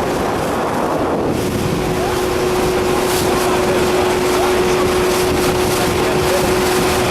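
A boat's engine running steadily under way, a constant hum under a wash of wind on the microphone.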